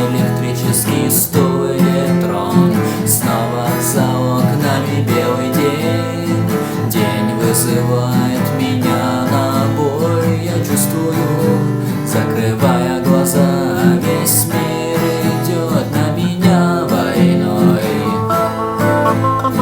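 Guitar-led Russian rock music: an instrumental passage of a song cover, with no sung words.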